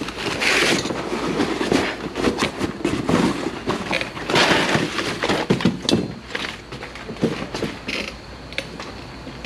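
Strut assembly parts being handled: irregular knocks, clicks and clinks, with a few short rustling patches.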